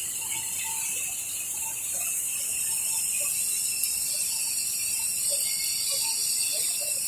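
Industrial microwave drying and sterilizing machine running: a steady high-pitched whine and hiss with faint, irregular ticking and rattling.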